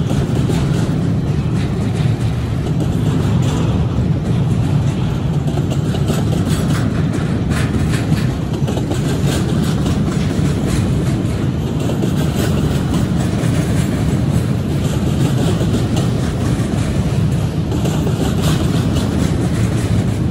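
Double-stack intermodal train rolling past at close range: a loud, steady rumble of the well cars' wheels on the rails, with scattered metallic clicks.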